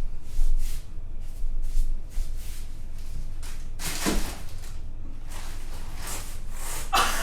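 Kitchen things being handled: a run of soft knocks and rustles, with a louder knock about four seconds in, over a low steady hum.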